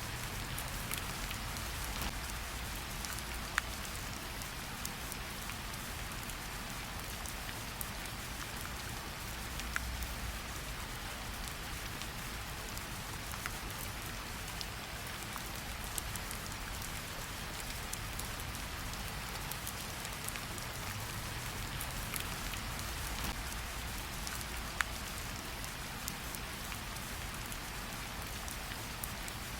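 Gentle rain falling steadily on tree leaves: an even patter with scattered single drops ticking sharply now and then, over a faint low rumble.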